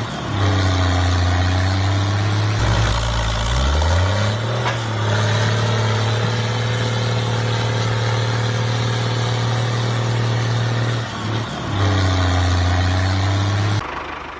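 A motor running with a steady low hum; about three seconds in the pitch drops and then glides back up before settling again.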